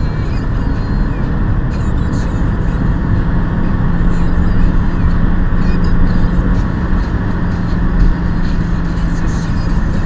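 A 1.8T turbocharged four-cylinder's aftermarket RUD exhaust, with no resonator on the downpipe, droning steadily while the car drives, heard from inside the cabin through a dashcam microphone along with road noise. The drone rises slightly in pitch about four seconds in and holds, and there is a single thump about eight seconds in.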